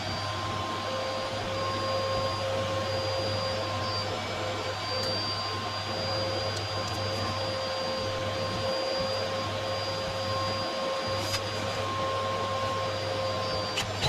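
Vacuum cleaner running steadily with a constant whine.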